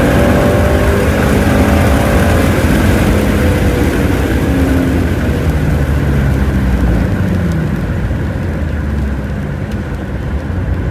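Shelby GT350's V8 engine easing off, its pitch falling over the first few seconds, then running at lower revs. A hiss under it dies away in the second half.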